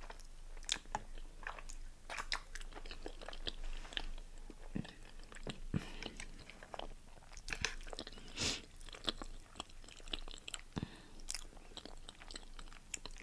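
Close-miked eating: chewing and biting with irregular wet clicks and smacks, now and then a crunch.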